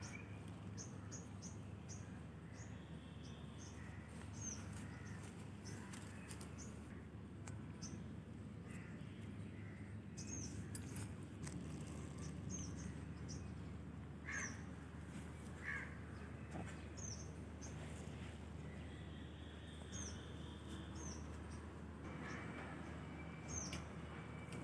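Birds chirping: short, high chirps repeating every second or so, with a couple of louder, lower calls near the middle, over a steady low background rumble.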